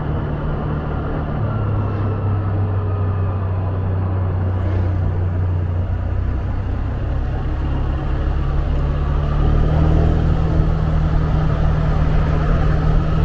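Motorbike engine running at cruising speed, heard from the rider's seat with wind and road noise; the engine note shifts a few times and grows a little louder about ten seconds in.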